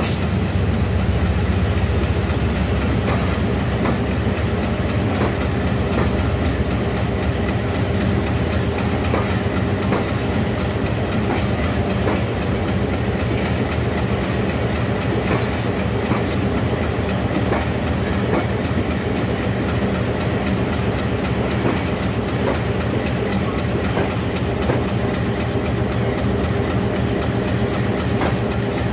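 Passenger coaches of a Pakistan Railways express rolling past close by, their wheels clicking steadily over the rail joints above a continuous rumble.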